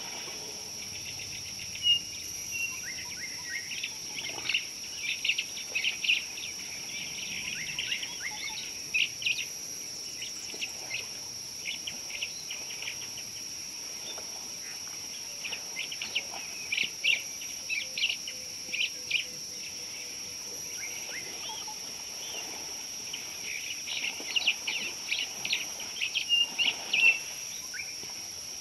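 Wild birds chirping: clusters of short, sharp calls coming and going, over a steady high-pitched hum.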